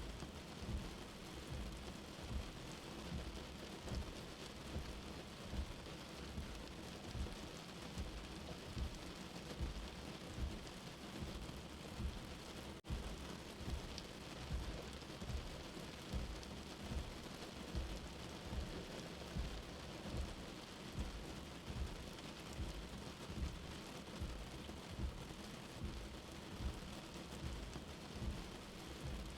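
Steady rain mixed with a soft, deep heartbeat thumping about once a second. The sound drops out for an instant about halfway through.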